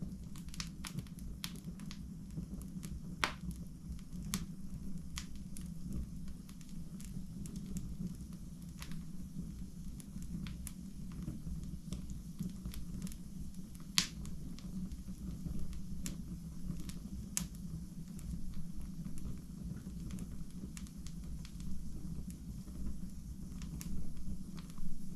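Fire burning in a fireplace: irregular crackles and snaps over a steady low rumble, with a few sharper pops standing out.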